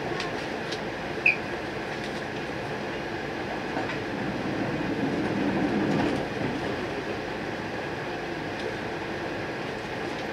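Steady hum heard inside an E4 series Max Shinkansen car standing at a station platform. A short, high chirp comes about a second in, and the hum swells briefly around the middle.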